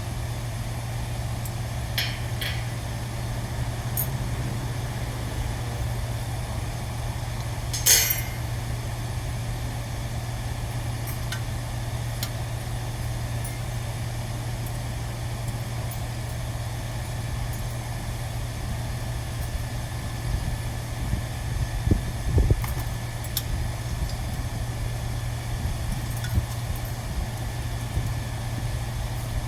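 A steady low machine hum runs throughout, with a few sharp clicks and knocks; the loudest knock comes about eight seconds in and a short cluster follows near the end.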